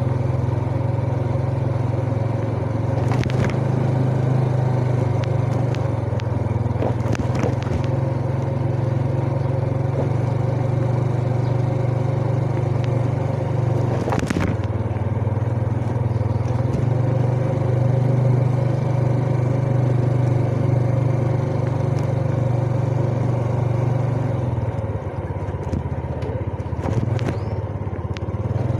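Yamaha Jupiter Z's single-cylinder four-stroke engine running steadily under way, with a few sharp knocks along the ride. About three seconds before the end the engine eases off and goes quieter, then picks back up.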